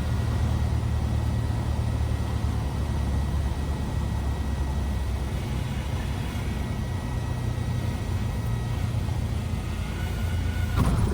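Cessna 172R's four-cylinder Lycoming engine running steadily at low power, heard inside the cabin as an even low drone.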